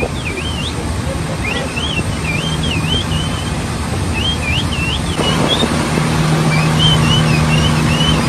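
Dolphins whistling, a string of high wavering whistles that swoop up and down, over the steady low hum of an engine that grows louder about five seconds in.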